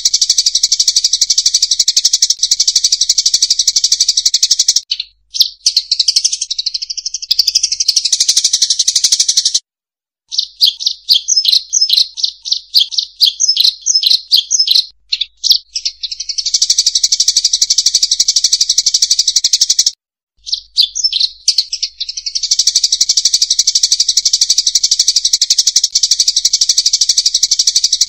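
Bird-lure recording of munias (emprit sawah): a loud, dense, high chatter of many chirps. It cuts off abruptly twice, and through the middle it breaks into a run of quick, separate chirps.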